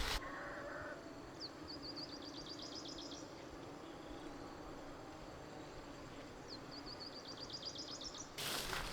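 A small songbird singing twice, about five seconds apart: each phrase is a single high note followed by a fast, even trill of repeated high notes lasting a little over a second, over steady outdoor background hiss.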